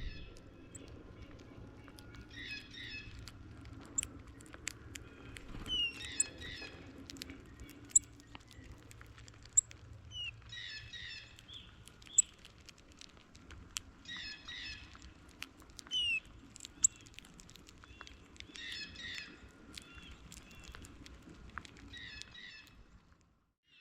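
Songbirds singing outdoors: one bird repeats a short phrase of several quick notes about every four seconds, with other birds' sharp high chips in between. Several brief loud clicks stand out.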